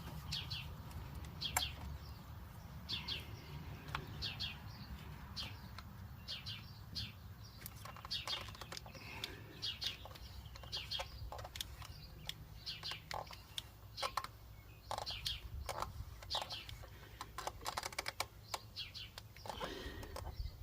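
Small birds chirping, many short high calls repeating through the whole stretch, over a steady low rumble, with a couple of sharp clicks.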